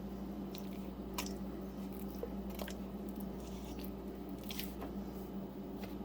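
Wet, marinated chicken pieces being pressed and turned in flour: soft squishing with scattered light taps, over a steady low hum.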